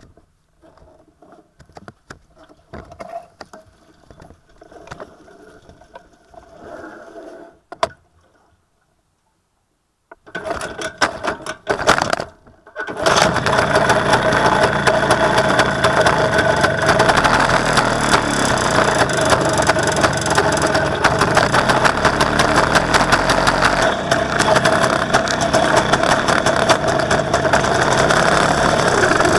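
WSK 125 Lelek's single-cylinder two-stroke engine. A few faint clicks and knocks come first, then a short silence. From about halfway through the engine runs loud and steady.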